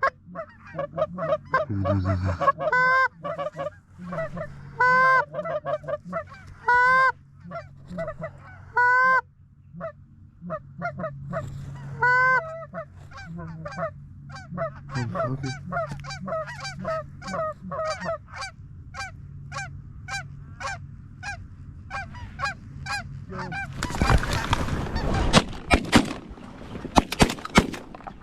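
Geese honking, many calls overlapping, with loud honks about every two seconds early on. About 24 seconds in, a burst of shotgun shots fired close together, several more following near the end.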